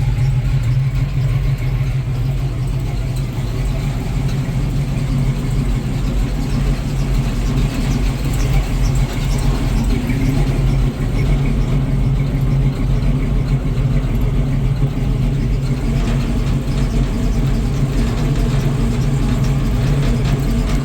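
A vehicle engine running steadily with a strong, even low hum and no revving.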